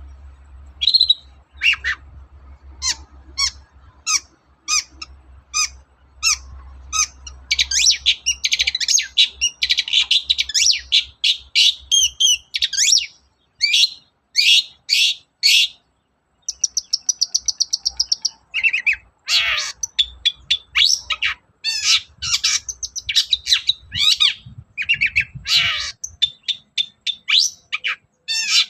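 Long-tailed shrike singing: a fast run of short sharp notes and harsh chatter, with a short buzzy trill about halfway through.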